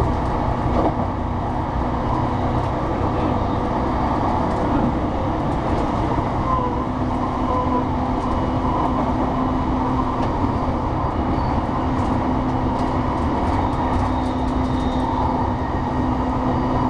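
Running noise heard inside a JR E233-3000 series electric train carriage moving at speed: a steady rumble of wheels on rail, with a faint steady hum underneath.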